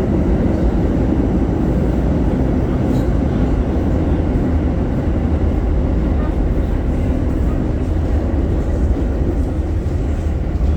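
A train running with a steady low rumble.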